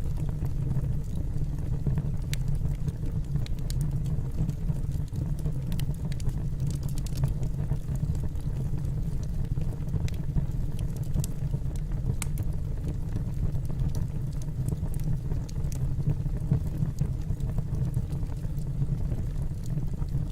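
Wood logs burning in a fireplace: a steady low rumble of the fire, with scattered sharp crackles and pops from the burning wood.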